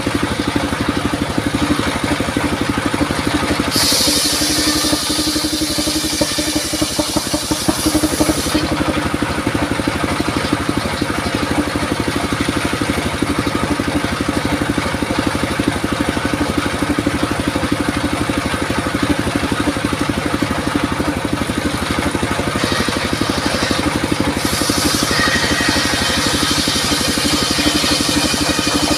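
Engine of a circular saw machine running steadily, with two spells of bright, high-pitched noise, one about four seconds in lasting some five seconds and another near the end, typical of the spinning blade cutting through durian wood.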